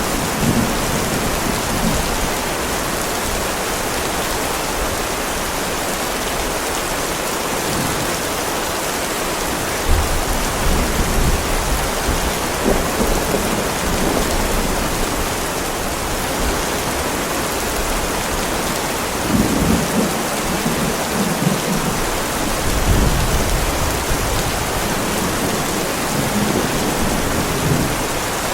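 Heavy rain falling steadily on a driveway, with low rumbles of thunder about ten seconds in, around twenty seconds in, and again a few seconds later.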